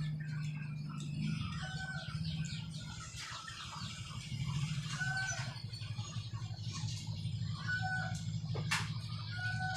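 Backyard chickens clucking, with a short, even-pitched call repeating about every second and a half over a steady low hum.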